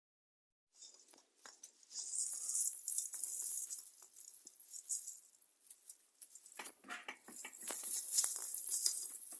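Rustling and rattling of Christmas tree branches and ornaments as a cat moves about in the tree: a hissy rustle with many small clicks, starting about a second in and getting busier and louder near the end.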